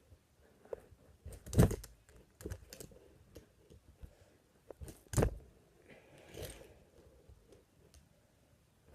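3D-printed fingerboard clacking as it is popped and landed: a few scattered sharp knocks and lighter clicks, the loudest about one and a half and five seconds in.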